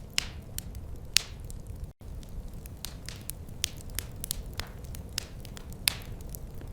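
Wood fire crackling in a fireplace: irregular sharp pops and snaps, a loud one every second or so among smaller ticks, over a steady low rumble. The sound cuts out for a split second about two seconds in.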